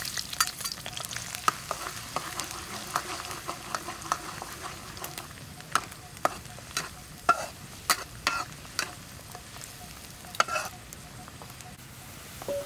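Chopped garlic frying in oil in a steel wok, sizzling steadily while a metal ladle stirs it, with frequent sharp clinks and scrapes of the ladle against the wok.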